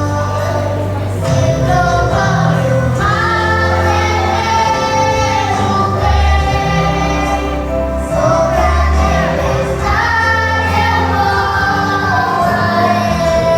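A song: voices singing a melody over instrumental accompaniment with sustained low bass notes.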